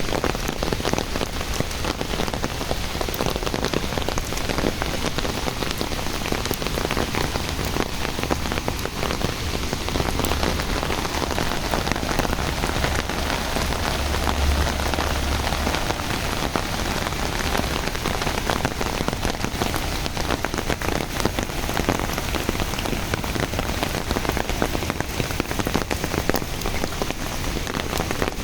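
Steady rain falling, with many separate drop hits heard close by. A low rumble joins in about ten seconds in and lasts several seconds.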